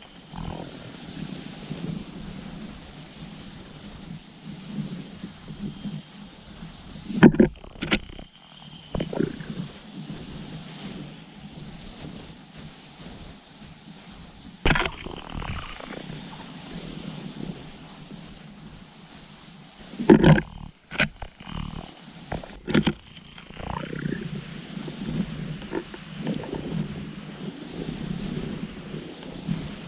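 High, thin bird chirps repeating all through, each short and slightly falling, over a steady low rumble. A few brief knocks or rustles break in at intervals.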